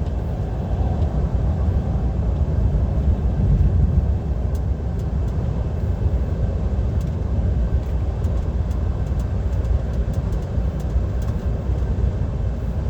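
Steady low drone and road rumble inside the cab of a DAF XF 530 lorry cruising at motorway speed, with no change in pitch or level.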